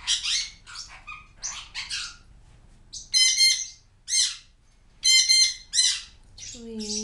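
Pet parrots squawking: a quick run of harsh, scratchy calls, then about four loud calls with several tones roughly a second apart.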